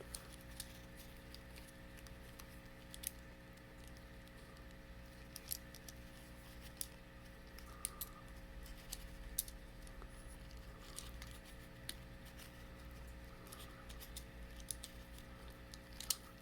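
Scattered small clicks and taps of a plastic Bakugan toy being handled, its parts pressed and folded into place, over a faint steady hum.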